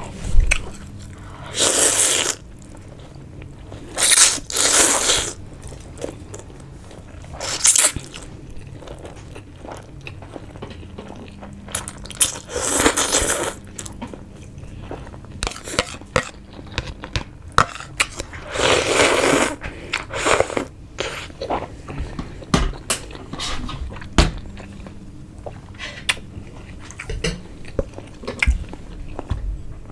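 Close-miked eating sounds: chewing and biting, with small clicks throughout and about five louder noisy bursts of around a second each.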